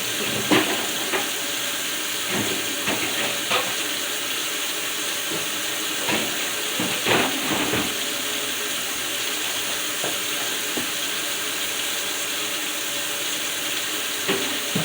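Scattered light knocks and clatter of containers being handled and set down, a busier cluster about seven seconds in, over a steady hiss.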